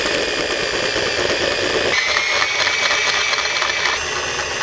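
Electric drill running slowly, its bit cutting into an aluminium exhaust manifold to enlarge a hole. A high squeal joins about two seconds in and stops about two seconds later.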